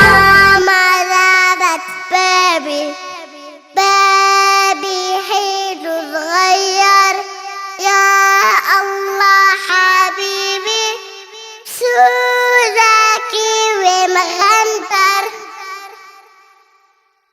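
A young girl singing a melody in three phrases over light accompaniment, the last phrase fading out to silence near the end.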